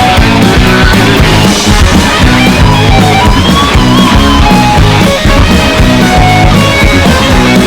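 Rock song with electric guitar and a drum kit playing, loud and dense throughout.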